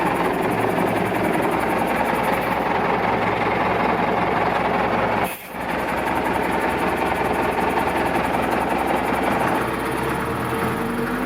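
Zetor 7540 tractor's diesel engine running steadily, with a brief drop-out about five seconds in.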